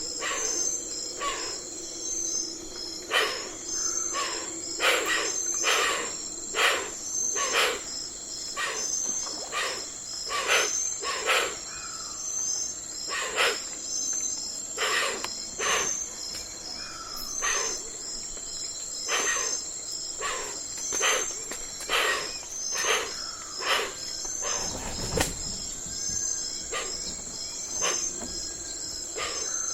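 Night forest ambience: insects trilling steadily in two high tones, with short sharp calls repeating irregularly about once a second and a few faint bird calls.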